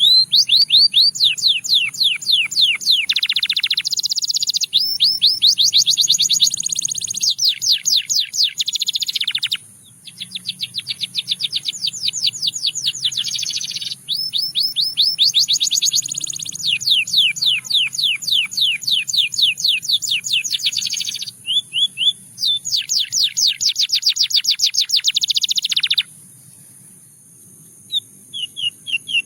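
Domestic canary singing: long rolls of rapid, repeated high notes in phrases of several seconds, broken by short pauses, with a faint low hum underneath.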